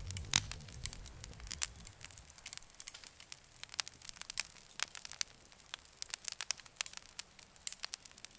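Campfire crackling, with frequent sharp pops and snaps of burning wood. A low rumble under the crackling fades away about two seconds in.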